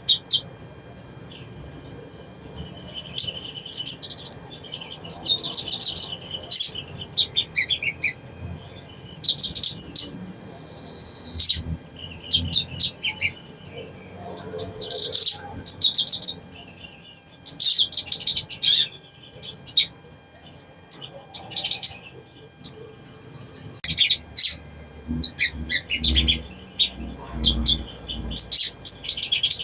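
Little spiderhunter (sogon) calling, with repeated bursts of rapid, high, chattering notes separated by short pauses. Near the end there is a low rumble under the calls.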